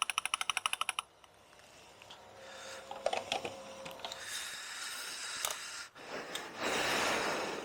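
Petrol pump nozzle clicking rapidly at the end of filling a motorcycle tank, about a dozen clicks a second, stopping about a second in. Then light handling noises, a single knock, and a rushing noise near the end.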